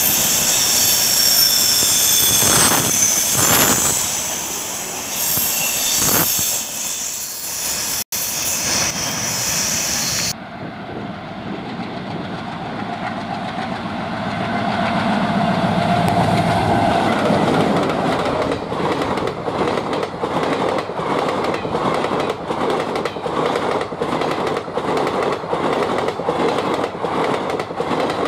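Passenger trains passing at speed with a loud rushing noise. In the later part a diesel locomotive approaches, and its coaches run past close by, their wheels clicking rhythmically over the rail joints, about two to three clicks a second.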